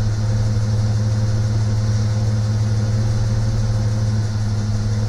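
Nissan GQ Patrol engine idling steadily, heard from inside the cab, just switched back from LPG to petrol; it is still running a bit lean.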